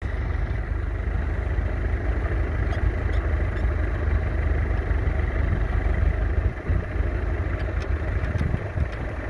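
McCormick B275 tractor's 2.3-litre four-cylinder diesel engine running steadily, with a deep, even low throb.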